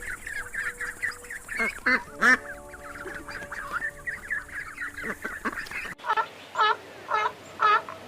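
Ducks quacking: a flock calling over one another for the first six seconds or so, then, after an abrupt change, single loud quacks about two a second.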